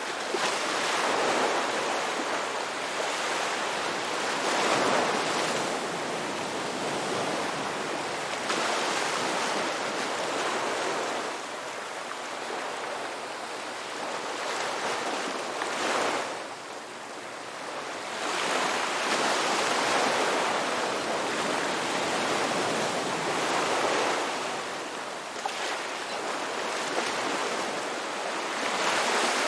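Ocean surf: a steady rush of breaking waves that swells and eases every few seconds, with a short lull about two-thirds of the way through.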